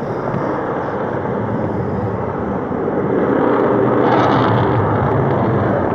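Fighter jet engine noise: a steady rushing rumble that grows a little louder after the middle.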